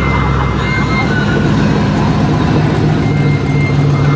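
A car engine running with a steady low rumble, its tone shifting slightly about a second in.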